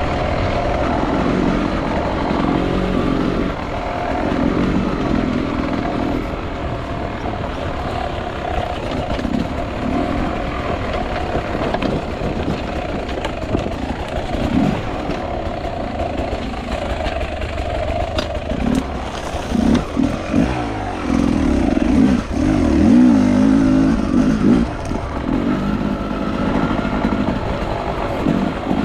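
Enduro motorcycle engine running and revving up and down over and over, with the hardest revs about 20 to 25 seconds in.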